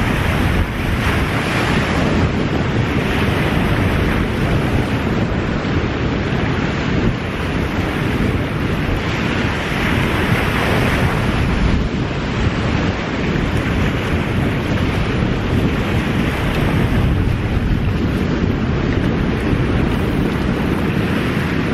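Small surf breaking and washing up a sandy beach, the hiss swelling and fading every couple of seconds, over a steady rumble of wind buffeting the microphone.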